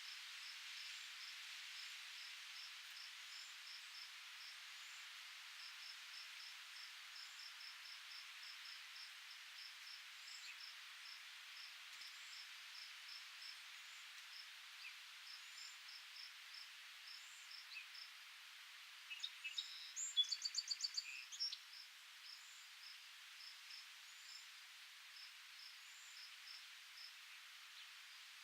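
Outdoor nature ambience: a steady airy hiss under a short high chirp repeating about three times a second. About twenty seconds in comes a brief burst of fast bird twittering, the loudest sound.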